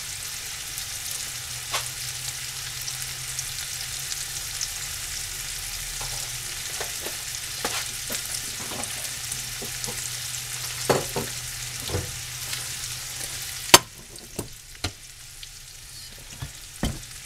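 Ribeye steaks and trumpet mushrooms sizzling in a hot cast-iron skillet, a steady frying hiss. A few light knocks of cookware come through it, and a sharp clack about three-quarters of the way through, after which the sizzle is quieter.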